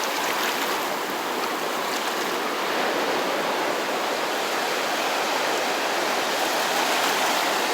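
Sea surf washing over a rocky shore: a steady rushing of water with no distinct breaks.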